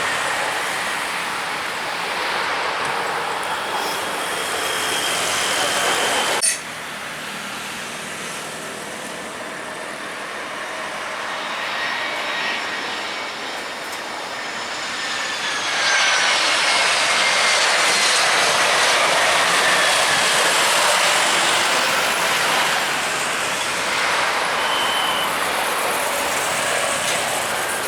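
Jet airliner engines running loud: a rushing roar with high turbine whines that slide down in pitch as the aircraft passes. The sound cuts off abruptly about six seconds in and picks up again at a lower level, before the roar swells from about halfway through.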